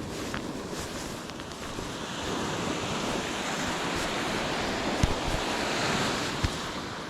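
Ocean surf breaking and washing up the shore, swelling louder a couple of seconds in, with wind buffeting the microphone. A couple of brief sharp knocks near the end.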